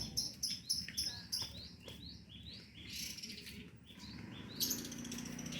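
Cinereous tit (gelatik batu) calling: a quick series of short rising chirps, about two or three a second, that breaks off briefly near the end and then starts again.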